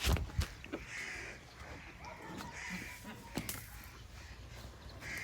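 A bird calling over and over, short calls about every one and a half seconds, with a few sharp knocks, the loudest right at the start.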